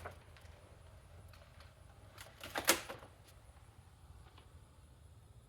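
A few sharp knocks and clatters from vacuum parts and boxes being handled, the loudest a little under three seconds in, over a low steady hum.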